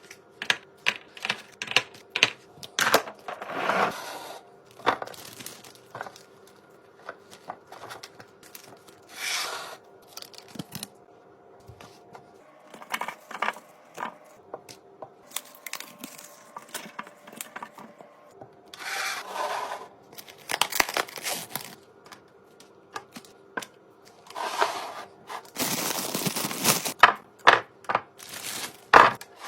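Groceries and plastic containers handled while restocking a fridge: a quick run of clicks and taps as items and lids are set down, broken by several bursts of packaging rustling and crinkling.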